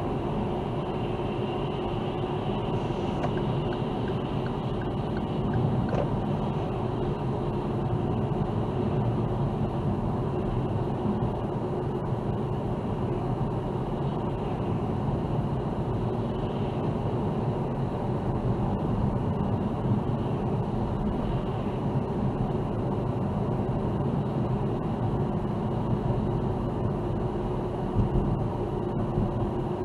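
Steady engine and tyre noise of a car being driven, with a few faint bumps along the way.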